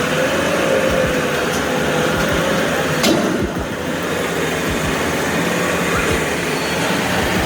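Heavy haulage vehicles running: a steady, dense engine noise with a wavering whine, and a single sharp knock about three seconds in.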